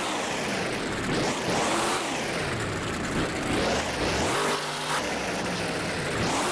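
Monster truck engine revving hard over and over, its pitch climbing and dropping several times as the throttle is worked.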